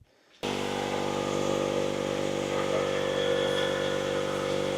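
A machine running steadily with an even, unchanging drone, starting abruptly just under half a second in.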